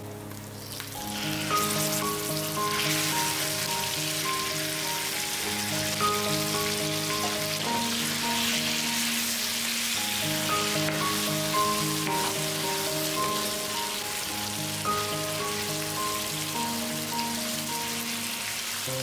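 Food frying in hot oil in a pan, a steady sizzle that comes up loudly about a second and a half in, over background music.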